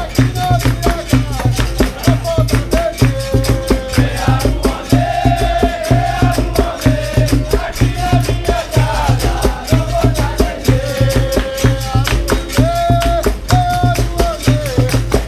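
Capoeira roda music: group singing over a fast, steady percussion rhythm of shaken rattles and pandeiro, the typical sound of a capoeira bateria led by berimbaus with caxixi.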